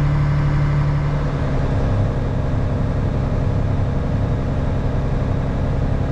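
Diesel engine of farm harvest machinery running steadily, a continuous low hum whose tone shifts slightly about a second in.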